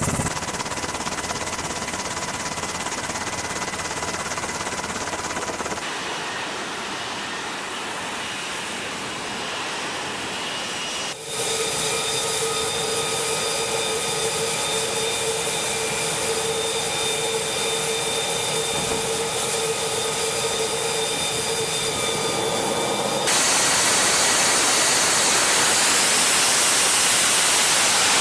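F-35B's Pratt & Whitney F135 jet engine running: a steady turbine whine of several high tones over a loud rushing hiss. The sound changes abruptly several times and is loudest and most hissing near the end.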